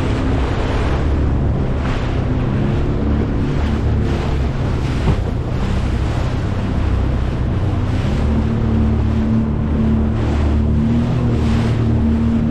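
A boat's engine runs steadily under way through choppy water, with wind buffeting the microphone and water rushing past.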